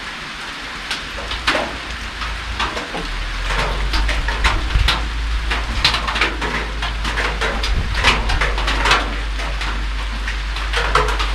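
Steady rain falling, with many scattered sharp clicks and knocks over it; a low rumble comes in about three seconds in.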